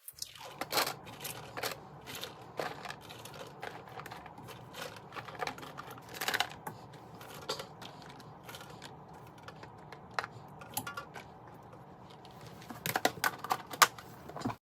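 Irregular light clicks and knocks of small household items and containers being handled and set down, with a quick flurry of louder clicks near the end, over a faint steady hum.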